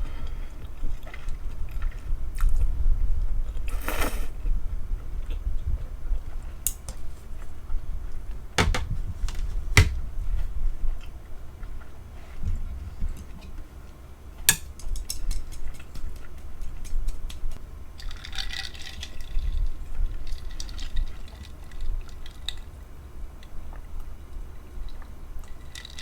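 Close-miked eating sounds: wet chewing and mouth noises, with a few sharp clicks along the way.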